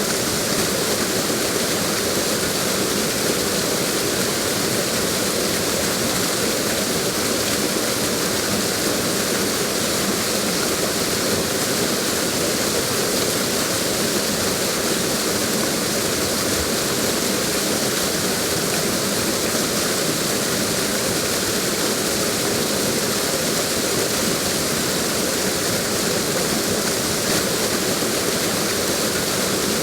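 Waterfall: water cascading over a drop, a steady, unbroken rushing.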